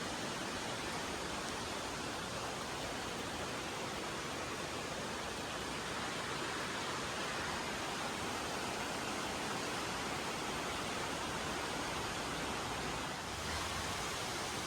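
Steady rushing of a creek running high after heavy rain, water flowing over rocks.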